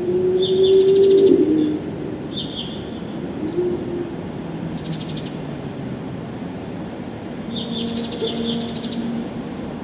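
Small birds chirping in short, rapid trilled phrases every couple of seconds, over a low droning tone that rises slightly and is loudest in the first second and a half, with fainter low tones near the end.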